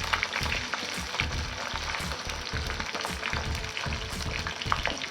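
Frozen French fries deep-frying in hot oil: a steady, dense sizzle with many small crackling pops.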